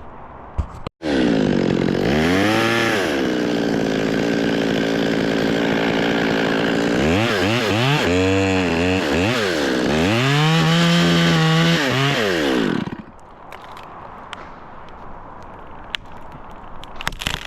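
Chainsaw running at full throttle and cutting, its revs dipping and rising several times as it bites into the wood, then cutting off suddenly about 13 seconds in. Faint crackling and a few clicks follow.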